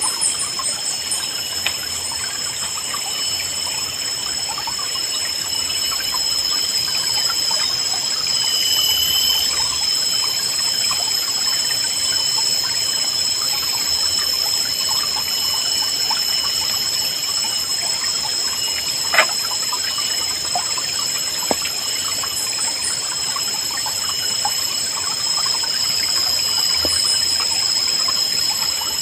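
A small river babbling and trickling over stones, with a steady high-pitched ringing tone above the water and a few short bird chirps. A single sharp click about two-thirds of the way through is the loudest moment.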